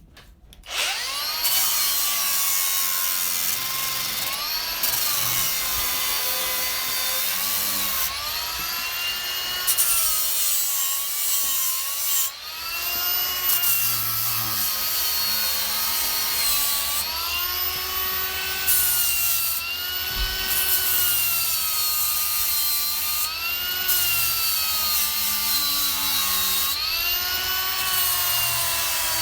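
Angle grinder with a flat disc grinding rust off steel: the motor's whine sags and rises again over and over as the disc is pressed into and eased off the metal.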